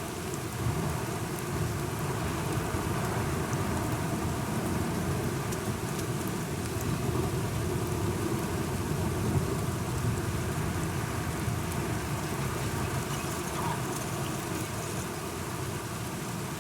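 Steady rain falling, with scattered raindrop ticks and a low rolling rumble of thunder that swells through the middle and eases toward the end.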